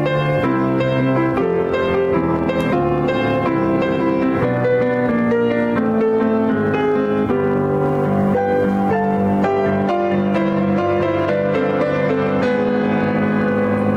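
Piano music: a steady flow of notes over held chords.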